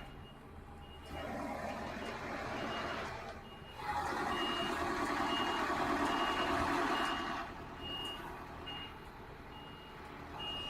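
Truck reversing alarm beeping steadily and evenly while a semi-truck backs into a parking spot. Under it the diesel engine runs, louder for a few seconds in the middle as it pulls back.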